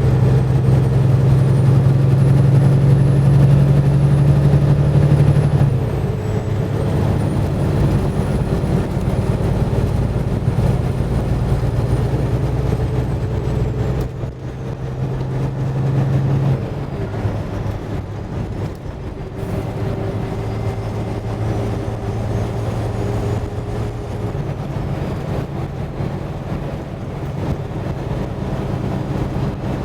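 Semi truck's diesel engine running on the road, a steady low note that shifts down in steps about six seconds in and again past the middle. A faint high whine rises and falls above it.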